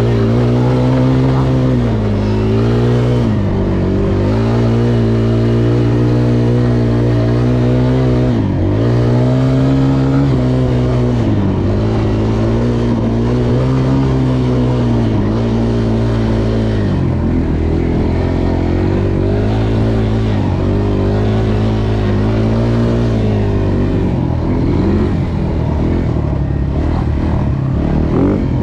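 Dirt bike engine running at a steady, moderate speed, its pitch dipping and climbing back every few seconds as the throttle is eased off and reopened.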